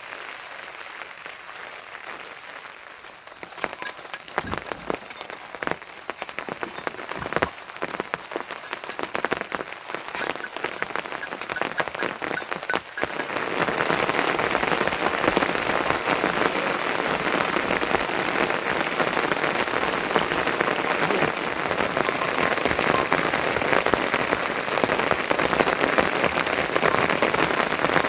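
Rain falling on a surface, with separate drops audible, that turns suddenly louder and denser about thirteen seconds in and then holds steady as a heavier downpour.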